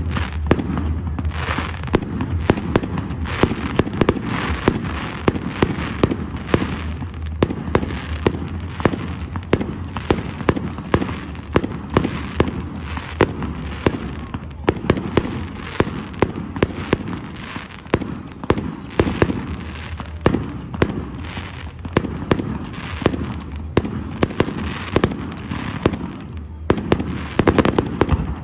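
Fireworks display: a rapid, continuous run of bangs and crackles, several a second, with a denser, louder volley near the end.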